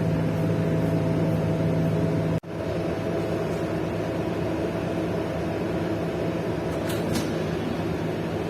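Steady engine hum and road noise inside a moving city bus, with a momentary cut-out about two and a half seconds in.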